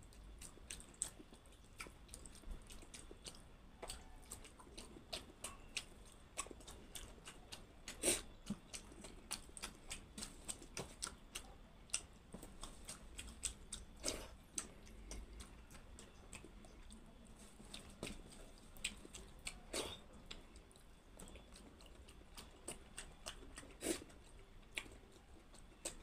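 Close-miked chewing and wet mouth clicks of someone eating soft khichdi rice by hand, a rapid irregular run of short smacks with a few louder ones spread through.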